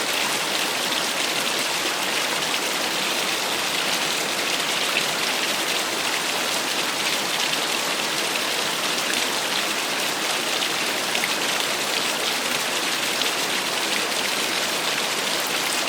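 Small waterfall: water falling and splashing in a steady, unbroken rush, with a fine crackle of drops.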